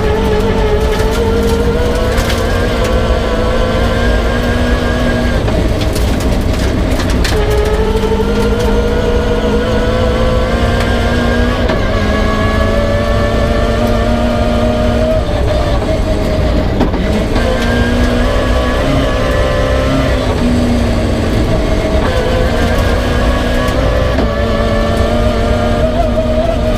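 Rally-prepared rear-wheel-drive Peugeot 306 at full effort on a special stage. The engine pulls up through the revs and drops sharply at each gear change, several times, over a steady rumble of road and tyre noise.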